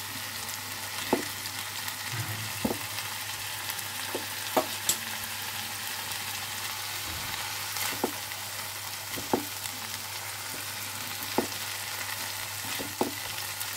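Onion, ginger and garam masala paste sizzling in oil in a non-stick frying pan, stirred with a spatula that scrapes and taps the pan every second or two.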